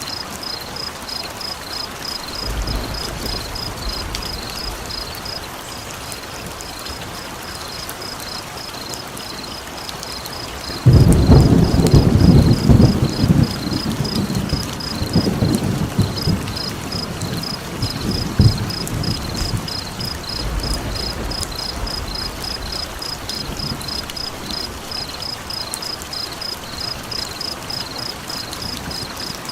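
Crackling campfire under a steady high-pitched chirping, about three chirps a second, which pauses briefly about halfway. About eleven seconds in, a sudden loud roll of thunder rumbles in and fades off in waves over the next several seconds.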